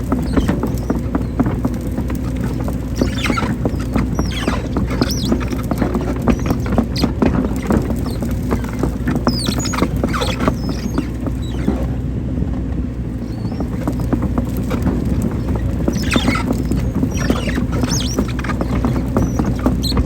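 Hydraulic excavator digging a small drainage ditch: its diesel engine runs with a steady low hum, over constant clicking and clatter and several short high squeaks from the working bucket and arm.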